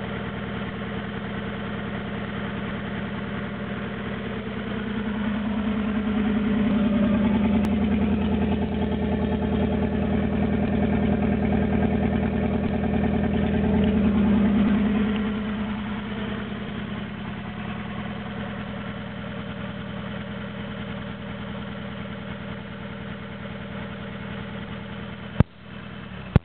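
Toyota 4A-GZE four-cylinder engine running on its first start with no exhaust fitted, idling roughly straight off the open manifold; the rough idle is down to low compression from mismatched pistons, in the owner's account. About 5 s in the engine speed rises and holds for roughly ten seconds, then settles back to idle. Near the end a sharp click is followed by the sound dropping away.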